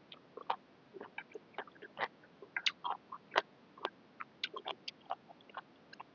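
Close-miked chewing of food: an irregular run of small wet mouth clicks and crunches, several a second.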